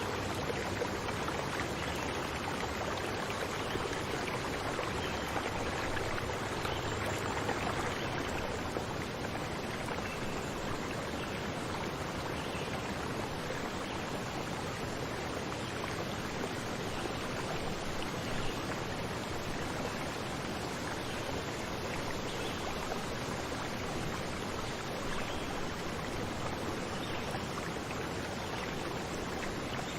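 Running water rushing steadily, an even wash of sound that holds at one level throughout.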